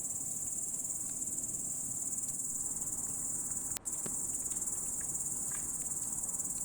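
Singing insects, a steady, high, continuous chirring, cut off for an instant a little under four seconds in.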